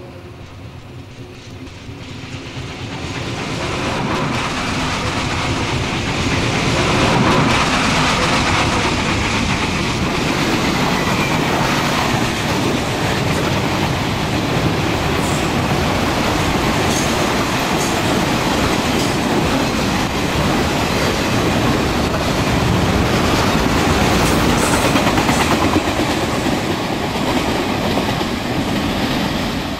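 N-scale model train running along the track, its wheels and motor making a steady rattling clatter. It grows louder over the first few seconds, holds, and eases slightly near the end.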